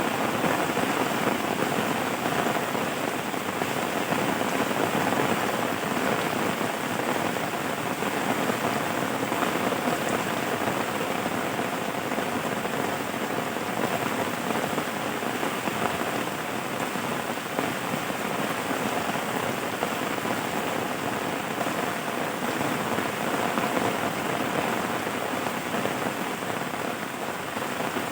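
Steady rain falling on a surface, an even continuous hiss with no breaks or thunder.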